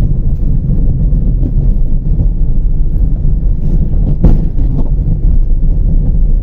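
Car cabin road and engine rumble over a rough dirt road, with one sharp knock a little past four seconds in as the car hits a rock.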